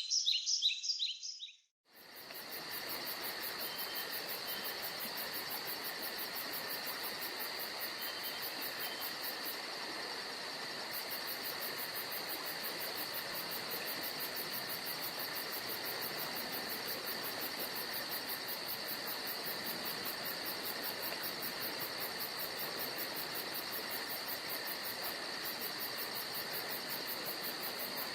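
Birds chirping for the first second or so, then after a short gap a steady chorus of insects, crickets chirping in a fast, even pulse.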